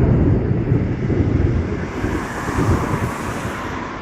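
Gusting wind buffeting the microphone in a rainstorm as a low, uneven rumble, with a rushing hiss rising over it about two seconds in.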